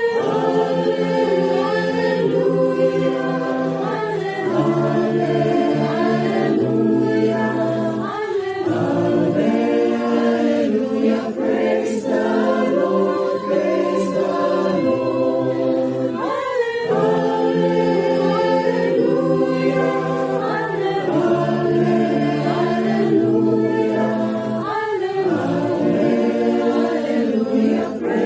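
Church choir singing a Christmas carol, many voices together in long held notes.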